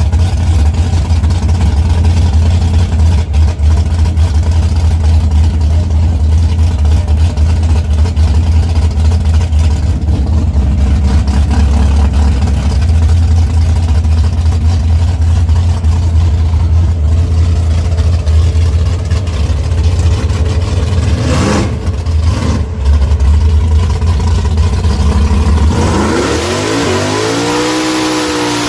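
A drag car's engine running with a loud, heavy low rumble, then revving up near the end with a rising pitch that levels off as the car launches and pulls away.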